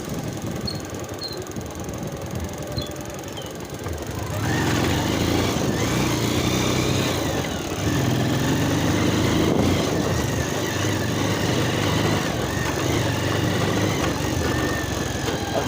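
Motorcycle engine running quietly at first, then from about four seconds in revving up and pulling hard, its pitch rising and falling as the throttle changes.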